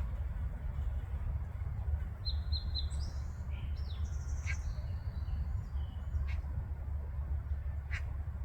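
A mother duck giving short quacks about every two seconds, her "I'm here" contact call to her ducklings. A songbird sings a quick run of high chirps over them a couple of seconds in, with a steady low rumble underneath.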